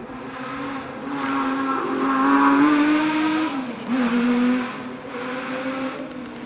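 Porsche rally car's engine pulling hard as it comes past during a hill climb, the note climbing and getting louder, dipping once about three and a half seconds in at a gear change, pulling again briefly, then fading away.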